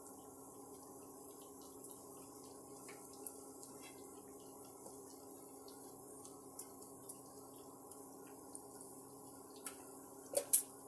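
Malpua batter frying in ghee in a nonstick pan, a soft sizzle with small scattered pops, over the steady hum of an induction cooktop. Two sharp clicks come near the end.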